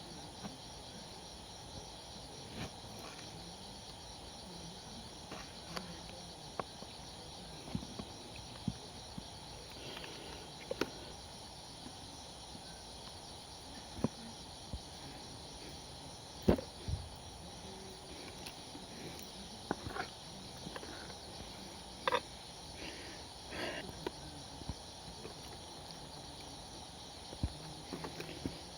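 Steady chirring of insects, likely crickets, with scattered short clicks and knocks throughout, the loudest about halfway through.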